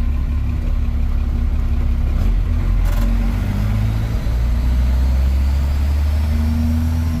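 Old truck's engine and road noise heard from inside the cab while driving: a steady, loud low drone, with one brief click about three seconds in.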